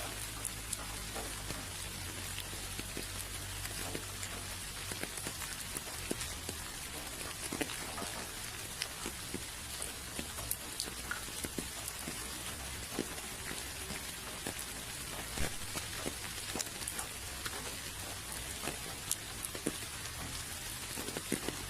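Steady rain falling, a constant hiss with many individual drops pattering close by.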